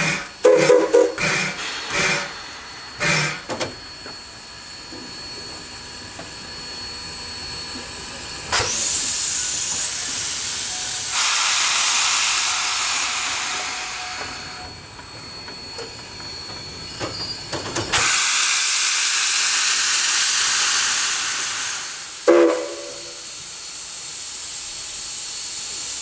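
Narrow-gauge steam locomotive venting steam. A loud hiss starts about eight seconds in and fades after several seconds; a second hiss starts abruptly near eighteen seconds. A brief pitched blast comes around twenty-two seconds, and a steadier, quieter hiss carries on after it.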